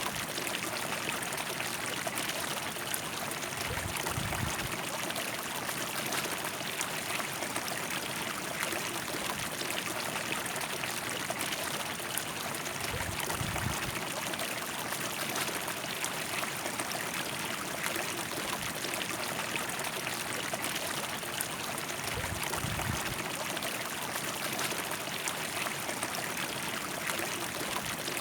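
River water flowing over stones: a steady, even rushing with trickling and splashing, unchanging in level.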